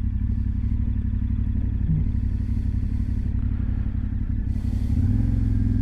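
Motorcycle engine running steadily under way, its note stepping up a little about five seconds in as the revs rise.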